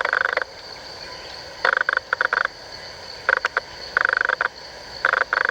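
An animal calling in short bursts of rapid, rattling pulses, five bursts in all, with a faint steady high whine beneath.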